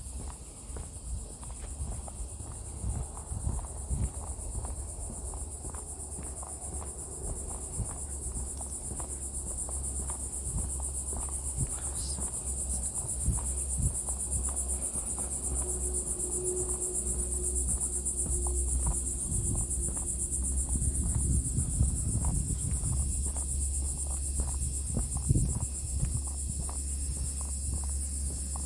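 Steady high-pitched chorus of insects, over a low rumble and scattered soft knocks.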